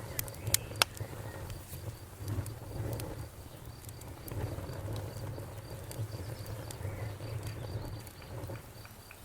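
Wood fire burning in a fireplace: a steady low rumble of the flames with sharp crackles and pops, several of them in the first second. A faint, even high-pitched ticking, several times a second, runs underneath.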